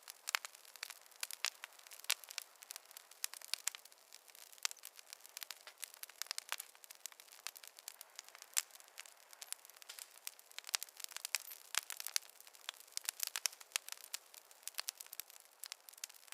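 Wood campfire crackling, with many irregular sharp pops and snaps over a faint hiss.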